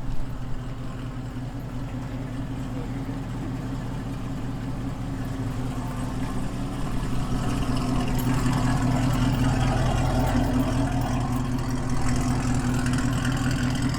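A car engine idling with a steady low hum, growing louder about halfway through.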